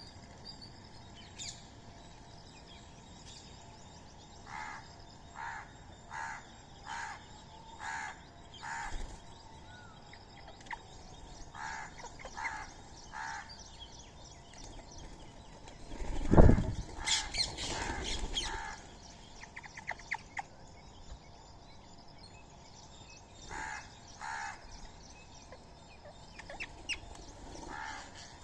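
Birds calling: runs of short, evenly spaced calls about a second apart, with fainter high chirps between them. About halfway through there is one loud sudden thump.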